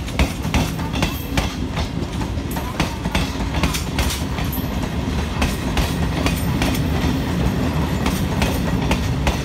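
Indian Railways EMU electric commuter train rolling past on the next track: a steady low rumble with its wheels clacking over rail joints, about two to three clicks a second.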